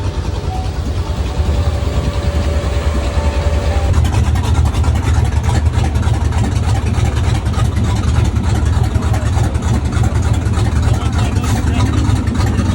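A large vehicle's engine running at idle: a steady low rumble that gets louder about four seconds in.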